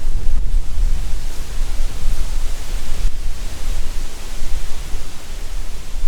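Strong wind buffeting the microphone with a deep, uneven rumble, while a gust hisses through the trees, swelling about two seconds in and easing off after four.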